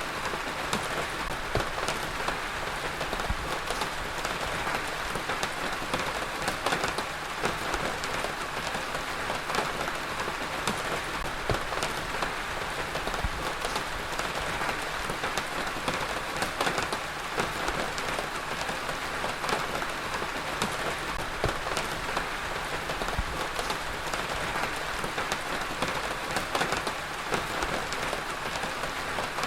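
Heavy rain falling steadily on a surface, a dense hiss with many close, sharp drop impacts.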